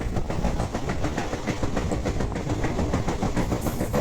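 Passenger train running along the track: a steady rumble with rapid clicking from the wheels and rails.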